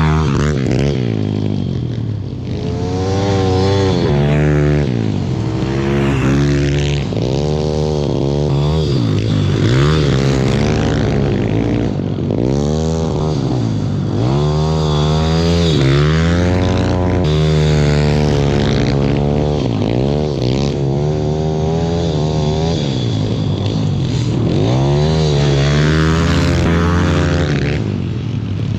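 Pit bike engine, a small single-cylinder four-stroke of about 150cc, ridden hard: revving up and dropping back over and over, rising and falling in pitch every second or two.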